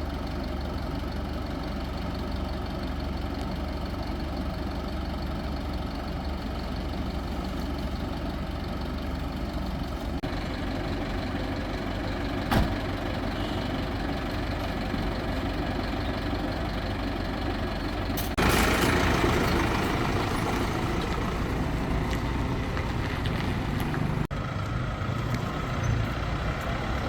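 Crane engine running steadily, with a sharp click near the middle. It gets louder and busier about two-thirds of the way in, as if working under load.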